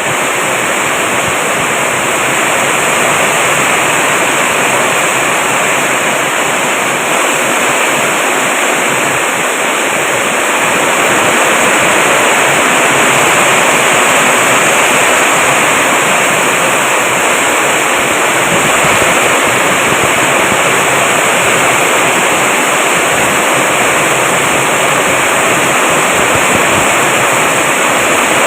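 Heavy downpour of rain in a dense, steady rush of noise, growing a little louder about twelve seconds in.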